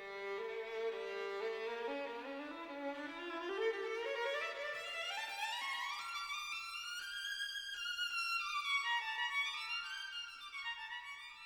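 Music: a violin melody climbing steadily in pitch over several seconds, then winding down and back up.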